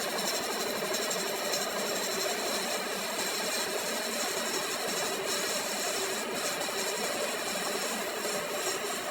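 A workshop machine tool running steadily, a continuous even hum and hiss with no breaks.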